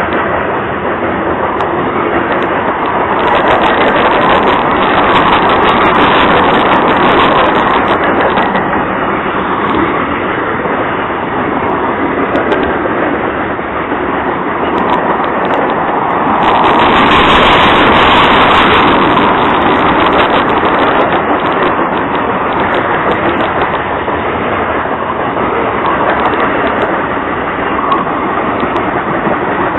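A Norfolk Southern train passing close by, its wheels on the rails making a loud, steady rush of noise that swells a little about halfway through.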